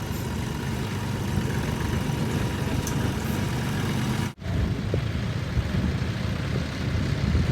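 Heavy diesel engines running steadily with a deep rumble, with a momentary break in the sound a little over four seconds in.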